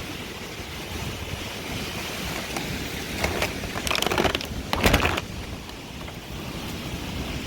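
Hurricane-force wind blowing across the microphone: a steady rushing noise with several louder bursts about three to five seconds in.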